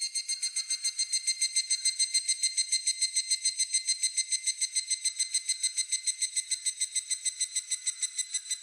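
Higurashi (evening cicada, Tanna japonensis) singing its ringing 'kana-kana-kana' call: one long run of rapid, evenly spaced high-pitched pulses that swells in and holds steady.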